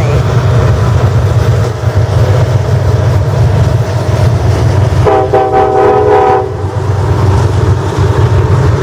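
Train passing close by with a heavy, steady rumble from the wheels on the rails. About five seconds in, the locomotive's air horn sounds one blast of about a second and a half, several notes at once.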